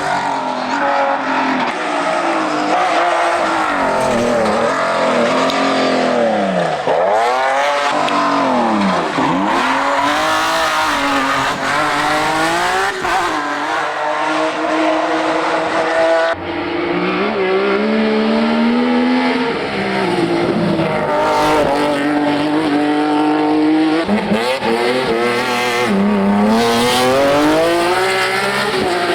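BMW E30 prototype hill-climb race car engine revving hard, its pitch climbing and dropping again and again through gear changes and corners. The sound changes abruptly a little past halfway.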